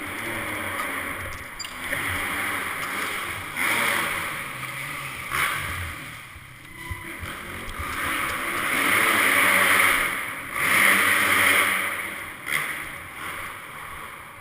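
Wind rushing over the microphone in surges that swell and ease, loudest near the end, with a faint low hum underneath.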